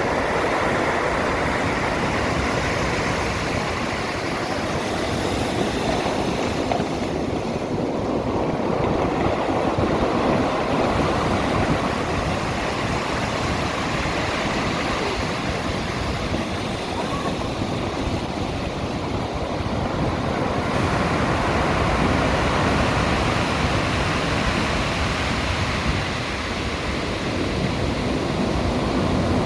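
Surf from a stormy sea: waves breaking and washing in a continuous rush that swells and eases every few seconds, with wind rumbling on the microphone.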